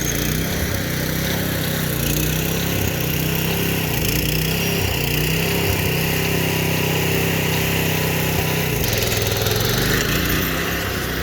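Predator 212 single-cylinder small engine of a homemade tractor running steadily at speed; the engine note drops about nine seconds in.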